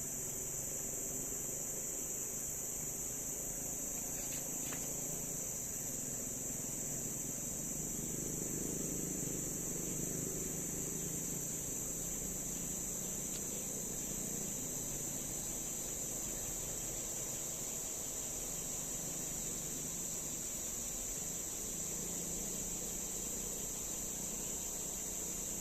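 Steady, high-pitched chorus of insects, an unbroken drone that holds level throughout.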